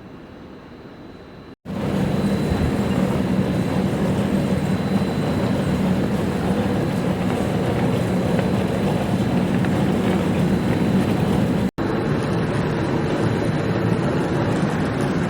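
Steady, loud machine noise with a low hum, cut off abruptly twice, once about one and a half seconds in and again near the end, each time resuming at once.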